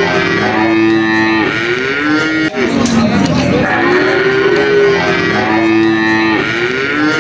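Cattle mooing: long, drawn-out calls that overlap, some held steady and some sliding in pitch. The same run of calls repeats about every five seconds, broken off abruptly each time.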